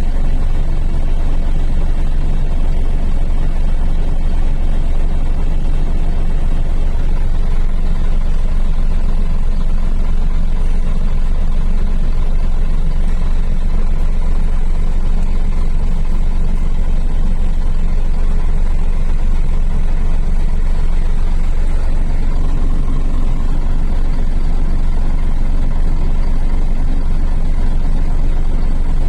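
Scania truck's diesel engine running steadily with a deep, even drone; the low end thickens slightly about two-thirds of the way through.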